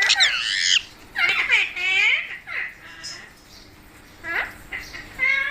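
Pet parrot squawking and chattering in short bursts of high, sweeping calls, with a lull before one last call near the end.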